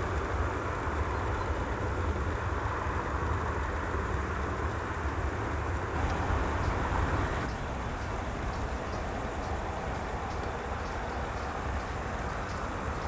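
Jet engine noise of a Boeing 777-300 airliner on its landing approach, a steady rushing sound that peaks about six to seven seconds in and then eases, over a low rumble. Crickets chirp steadily in the background.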